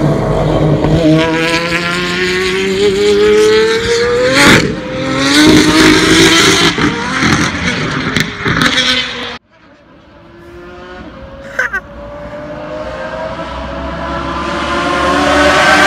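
Pagani Zonda Revolution's V12 engine accelerating hard, its pitch rising through the revs with a short break about four and a half seconds in. After a sudden cut, the car is heard again from afar, growing steadily louder and higher as it comes closer.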